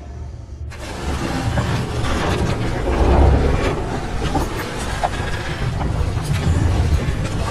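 A heavy, low rumbling noise, dense and continuous, with scattered creaks and knocks through it. It cuts in suddenly under a second in, as a music box's tinkling tones stop.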